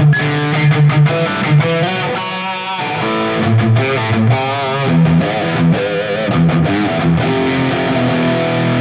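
Electric guitar riffing through a digital modeling unit's Marshall Plexi amp model, mixing chords and single notes. The low end is a little loose, which the player describes as some low-gain, low-frequency floppiness.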